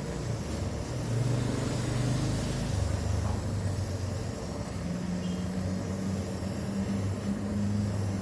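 Honda Vario 150 scooter's single-cylinder engine running, its speed going up and down several times.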